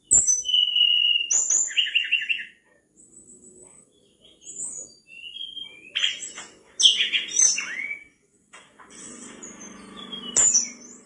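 Mangrove blue flycatcher singing a rapid, varied run of high chirps, whistled notes and short trills, broken by brief pauses.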